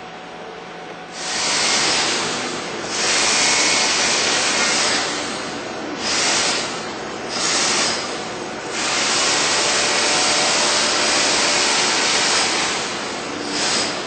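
A pressurized sprayer hissing in six bursts of varying length; the longest lasts about four seconds.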